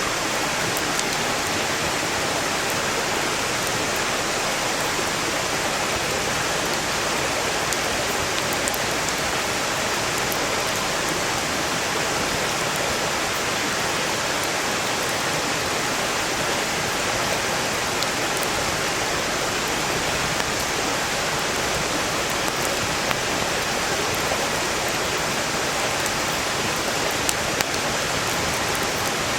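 Steady rushing of a valley stream running beside the fire, with small crackles of burning firewood scattered through it and a couple of sharper pops near the end.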